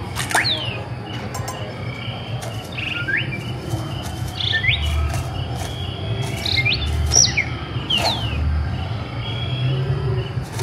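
Birds chirping: a scattered series of short, sharp calls that sweep quickly up or down in pitch, over a steady low hum.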